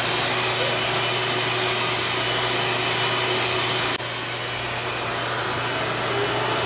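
RevAir reverse-air hair dryer running, a steady rush of suction and air over a low motor hum as it dries hair. The level dips slightly about four seconds in.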